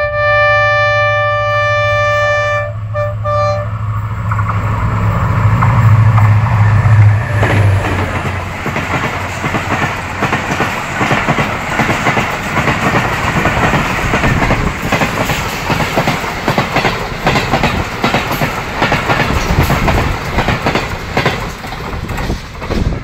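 Diesel-hauled passenger express passing at speed. The locomotive sounds its multi-tone horn for nearly three seconds, then gives a few short toots; its engine rumbles past. The coaches then run by with a steady clatter of wheels over the rail joints.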